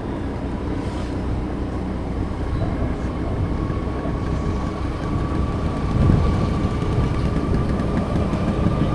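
Steady road and engine noise of a moving vehicle, picked up by the camera's built-in mic, with a low rumble throughout and a faint steady whine coming in about two and a half seconds in.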